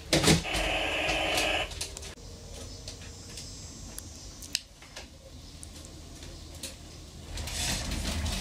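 Electronic sound effect from a toy truck's small speaker, about a second and a half long, followed by small plastic clicks and handling noises.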